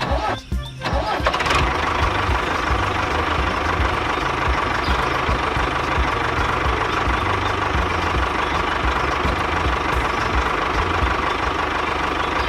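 Small motor of a DIY mini tractor starting about a second in, then running steadily with a constant high whine.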